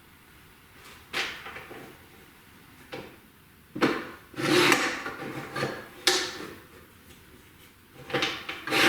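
Shipping box and packing being handled and pulled open while a small metal-cutting band saw is unboxed: a series of separate scrapes and knocks, the longest in the middle and near the end.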